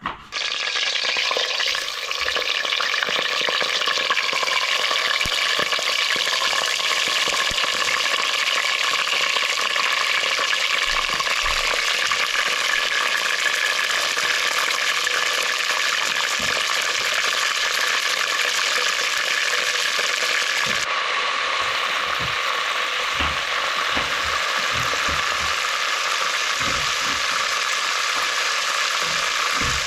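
Food for chicken pilaf sizzling and frying in hot oil in a cooking pot, a loud steady sizzle that starts suddenly at the beginning. A few faint low knocks come in the second half.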